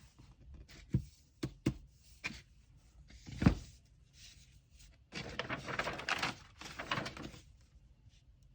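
Items being handled on a table while packing an order: a few light knocks, one heavier thump about three and a half seconds in, then about two seconds of paper rustling and crinkling.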